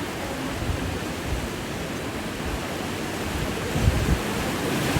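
Sea surf rushing steadily against rocks, with a couple of low wind buffets on the microphone about four seconds in.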